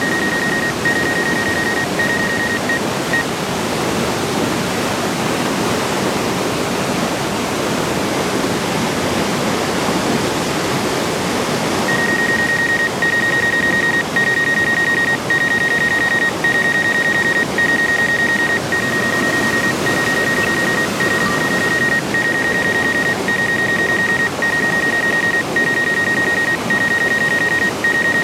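Waterfall roar as a steady, loud rushing noise. Over it, a high electronic beep repeats about one and a half times a second for the first few seconds, then again from about twelve seconds in.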